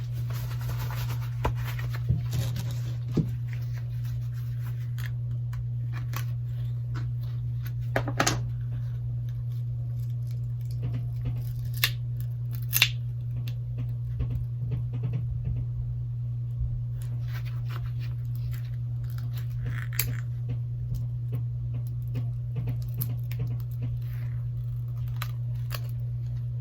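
Pry tool scraping and clicking along the edge of a Galaxy Note 8's back glass as it cuts through the softened adhesive, with scattered sharp ticks over a steady low hum.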